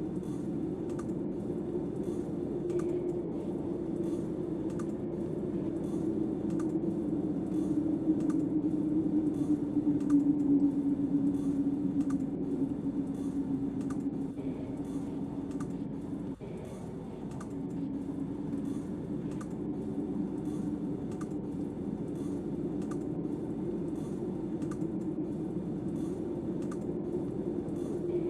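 Wind howling in a low, wavering drone that swells about eight to twelve seconds in, with faint light clicks ticking along at an even pace.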